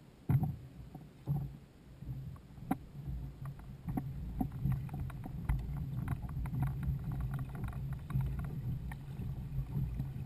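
Sounds on a fishing kayak on the water: a steady low rumble with scattered knocks and clicks against the hull.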